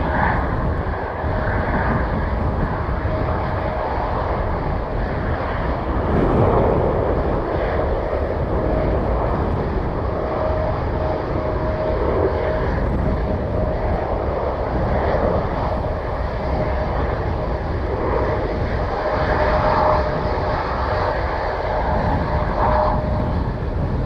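Aircraft engines running with a steady roar, and a thin whine that comes and goes.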